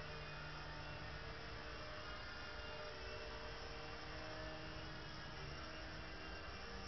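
Mini 3-channel RC helicopter's small electric motors and rotors giving a steady whirring hum, its pitch drifting slightly up and down.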